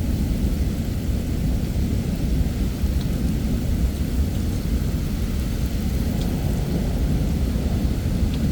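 Heavy thunderstorm: steady rain under a continuous low rumble of rolling thunder, with no sharp claps.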